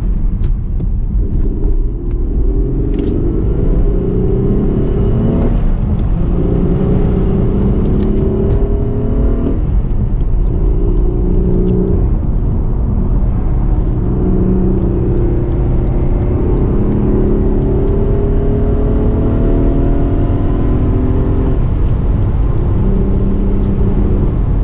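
Acura TL's V6 engine heard from inside the cabin while driving. The engine note rises under acceleration, then drops and starts rising again at each of several gear changes of the manual gearbox.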